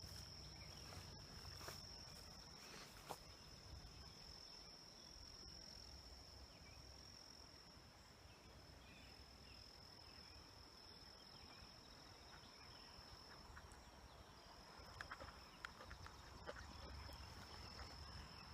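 Faint outdoor ambience with a steady high-pitched insect drone, like crickets, held on one unbroken note, and a few faint ticks near the end.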